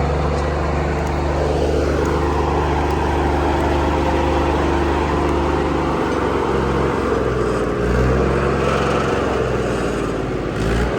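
Fiat 480 tractor's three-cylinder diesel engine running hard and steadily while driving a wheat thresher, its pitch shifting slightly about six and eight seconds in.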